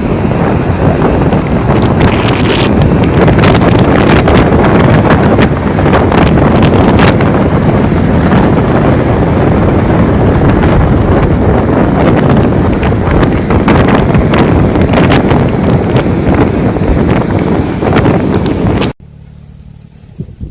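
Strong wind buffeting the microphone in a snowstorm: a loud, gusty rush of noise with a heavy low rumble. It cuts off suddenly about a second and a half before the end, leaving a much quieter low rumble.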